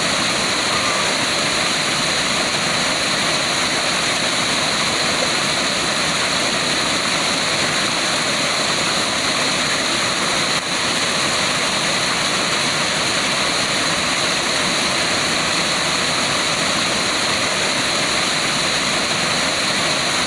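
Steady rushing of a waterfall, an even wash of falling water, with a brief dip about ten and a half seconds in.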